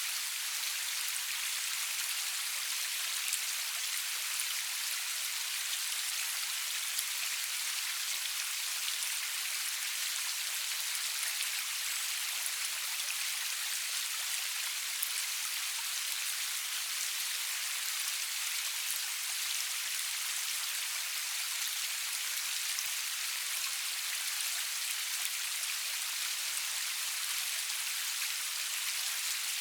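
Steady rain falling, a continuous even hiss with fine drop patter, no thunder or music.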